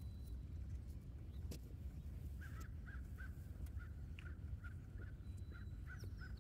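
A bird calling in a quick run of short, repeated notes, about three a second, starting about two and a half seconds in. Under it are a faint steady low rumble and a few sharp clicks.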